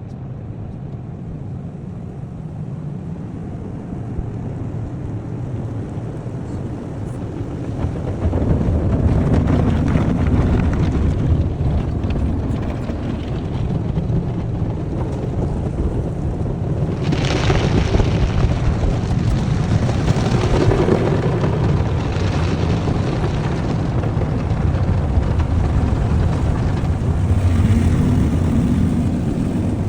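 Automatic car wash tunnel heard from inside the car: a steady, muffled rumble of the machinery and water on the body, growing louder about eight seconds in, with several passing surges of spraying hiss.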